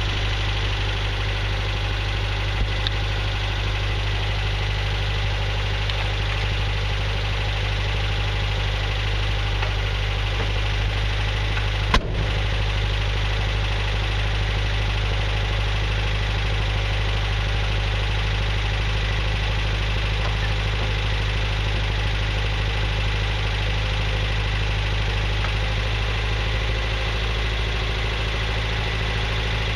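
1965 Datsun PL320 pickup's four-cylinder engine running steadily after a cold start. The engine is old and worn, with quite a bit of blow-by. A single sharp knock comes about twelve seconds in.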